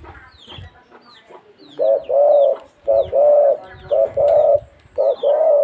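A bird giving four loud, low two-part calls about a second apart, each a short note followed by a longer one, starting about two seconds in. Faint high chirps from smaller birds run underneath.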